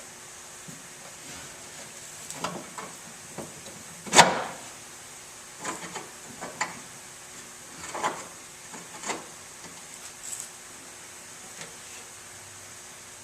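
Scattered knocks and clanks of hands-on work on a car body, with one sharp, much louder clank about four seconds in.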